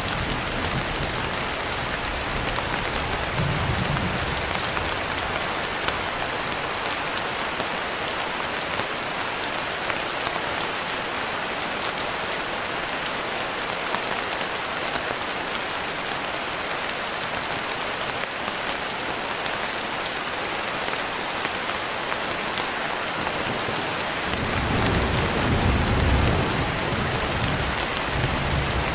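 Steady rain falling on a surface, with a low rumble of distant thunder about three-quarters of the way through.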